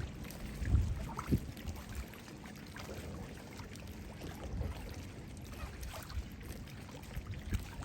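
Water sloshing and lapping around a small boat drifting at rest, with a few soft low knocks against the hull, the loudest about a second in.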